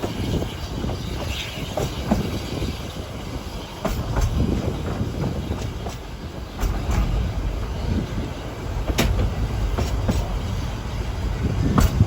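Narrow-gauge train running on the Ffestiniog Railway: a steady low rumble with sharp clicks now and then from the wheels on the track.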